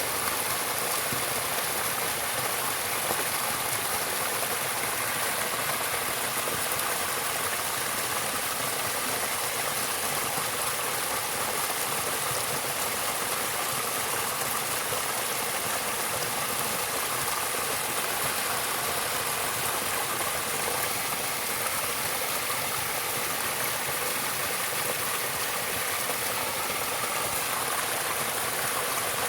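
Steady, unbroken rush of running water, with a hiss in the highs and no change in level.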